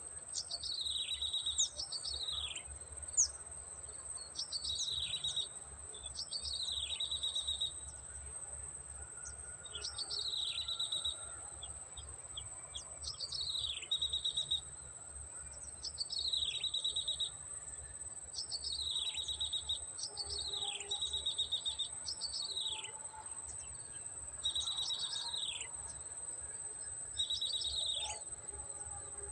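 Prenjak (prinia) calls repeating throughout, each a quick falling sweep followed by a short buzzy trill, coming every couple of seconds. A steady thin high whine runs underneath.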